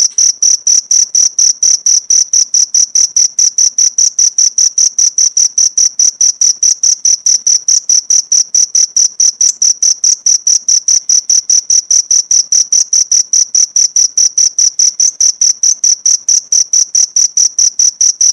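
Cricket chirping steadily: a high-pitched chirp repeated evenly about five times a second, cutting off suddenly at the end.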